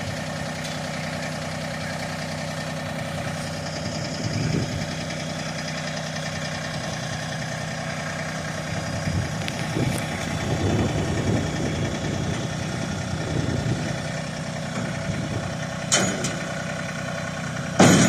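A motor vehicle's engine idling steadily, with a couple of sharp knocks near the end.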